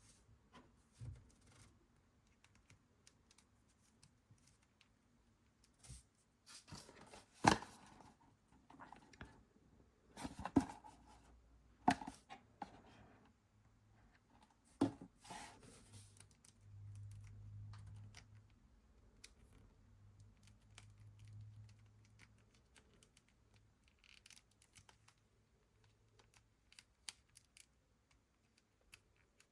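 Blind-box toy packaging being opened by hand: a few sharp tears and clicks of paper and plastic wrapping near the middle, with quieter rustling and handling noise around them.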